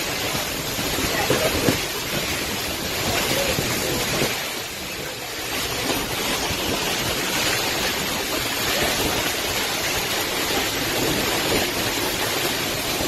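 Hurricane wind and heavy rain making a steady, loud rushing noise, easing briefly about four seconds in.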